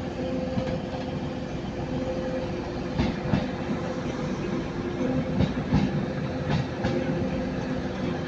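Class 185 diesel multiple unit moving through the station: its engines hum steadily. From about three seconds in, its wheels clack irregularly over rail joints and points.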